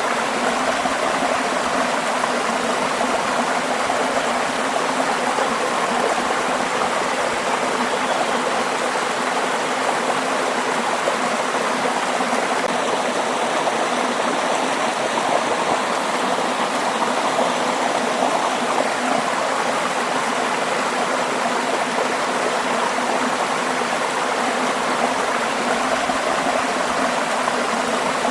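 Waterfall: falling water rushing steadily and evenly, with no breaks.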